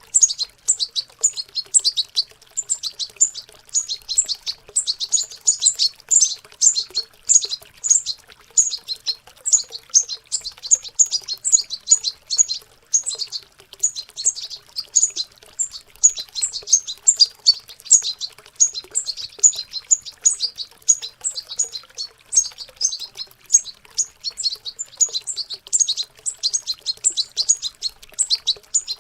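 Young European goldfinches babbling their juvenile subsong: a continuous stream of rapid, high twittering chirps.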